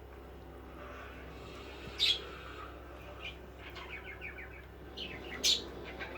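Budgerigars chattering softly in warbling calls, with two loud, sharp chirps: one about two seconds in and another near the end.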